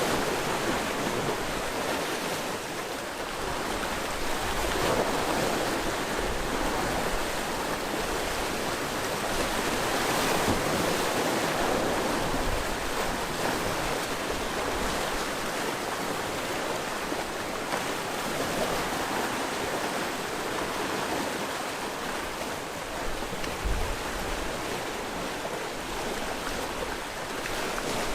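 Sea waves washing ashore: a continuous rush of surf that swells and eases every several seconds. A brief low thump sounds about 24 seconds in.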